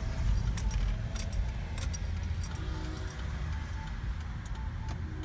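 Truck driving, a steady low engine and road rumble with light metallic clinks and jingles scattered over it.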